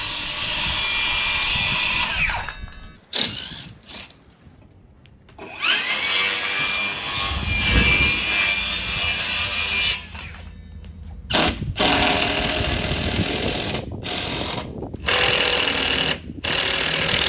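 Power tools working wood: a tool runs twice for a few seconds, winding up and down each time, then runs in a string of short trigger bursts.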